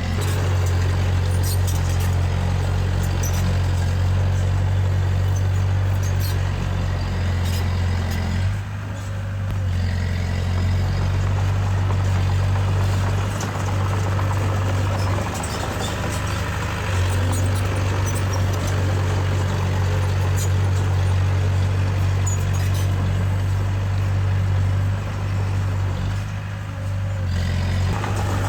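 Diesel engine of heavy earthmoving machinery running steadily, easing off briefly three times, about a third, halfway and near the end, with scattered light clanks and ticks over it.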